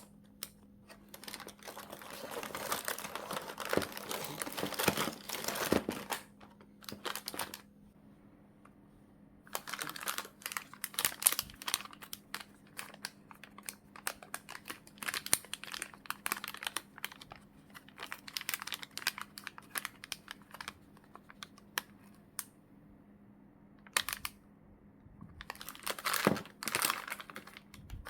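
Plastic wrapping crinkling as merchandise is handled and unwrapped by hand, with quick light clicks and taps among the rustling. A dense stretch of crinkling comes first, then after a short pause a long run of quick clicks and crinkles, and one more burst of crinkling near the end.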